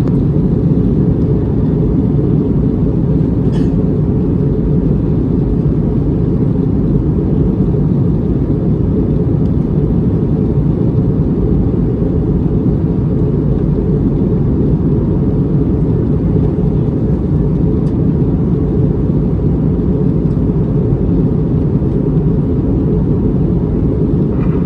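Steady low drone inside the cabin of an Airbus A320neo in its climb: engine and airflow noise, even throughout, with a faint click about three and a half seconds in.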